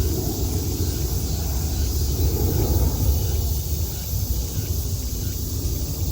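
Outdoor summer ambience: a low, uneven rumble that swells about two to three seconds in, under a steady high hiss.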